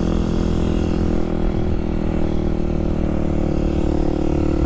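Kawasaki KLX300SM supermoto's single-cylinder four-stroke engine running at a steady cruise, its pitch holding even.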